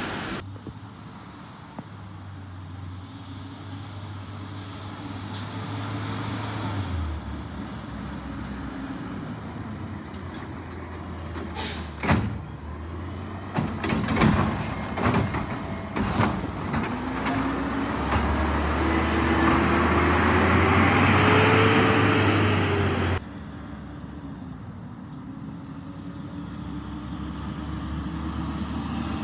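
A Peterbilt 520 garbage truck with a Heil body and Curotto-Can cart arm runs while a series of sharp bangs and clattering knocks sound in the middle, as the automated can dumps a cart and its lid slams. The engine then revs up with a rising pitch and the sound drops off suddenly a few seconds before the end.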